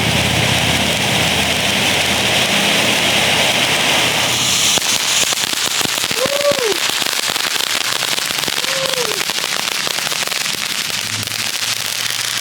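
A consumer firework fountain hissing steadily, then from about five seconds in breaking into rapid crackling pops that run on to the end.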